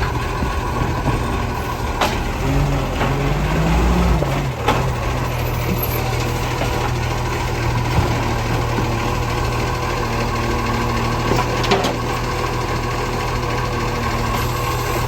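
Garbage truck's engine idling, revving up briefly a few seconds in and settling back, with a few sharp knocks now and then.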